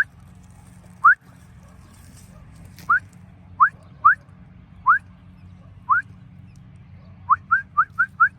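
Newly hatched American robin nestlings chirping: short rising peeps, spaced out at first, then five in quick succession near the end.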